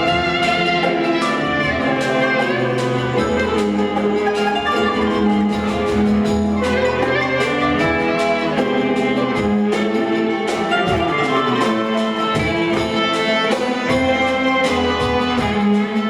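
Music in a Turkish makam: an ensemble with violins plays a melody over a steady accompaniment.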